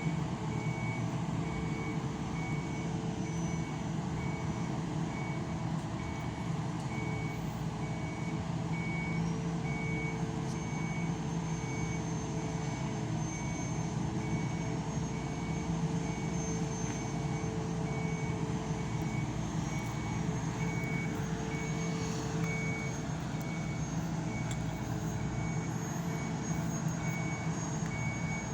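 Heavy machinery running steadily with a warning beeper sounding at an even, repeating pulse. A thin high whine joins about nine seconds in.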